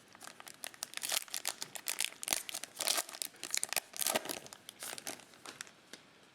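Foil trading-card pack wrapper crinkling and tearing: a dense run of sharp crackles that tapers off near the end.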